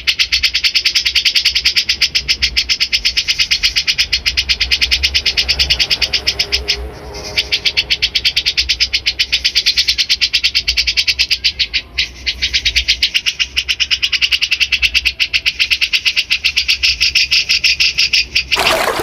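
A songbird repeating a rapid run of sharp, high chattering notes, about ten a second, broken twice by short pauses. Just before the end the bird stops and running water begins.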